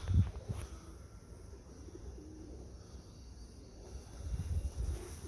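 Domestic pigeons cooing softly, a low wavering call, with a few low thumps on the microphone about a fraction of a second in and again near the end.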